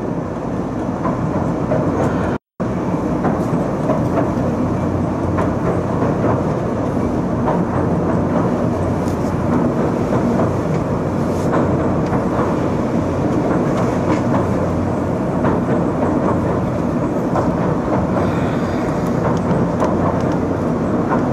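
Oigawa Railway Ikawa Line train running: steady rumble of wheels on rails with a light clickety-clack over the rail joints. The sound cuts out completely for a moment about two and a half seconds in.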